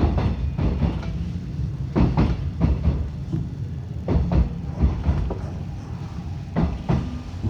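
Seoul Metro 6000 series subway train running, with a steady low rumble and sharp wheel knocks over the rail joints at irregular intervals.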